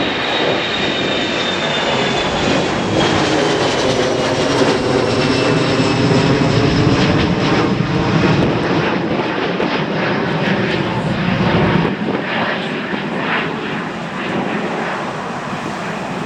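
Airliner engines passing close by. A high engine whine falls slowly in pitch over the first few seconds under a broad, steady rush that is loudest in the middle.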